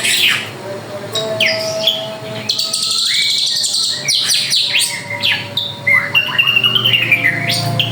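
Drongo (srigunting) singing vigorously: a rapid, varied string of whistles, quick falling sweeps and chattering notes.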